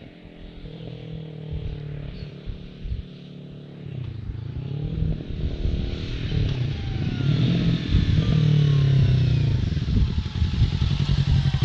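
Kawasaki Ninja 650 parallel-twin engine and exhaust revving, its pitch rising and falling several times and growing steadily louder through the second half.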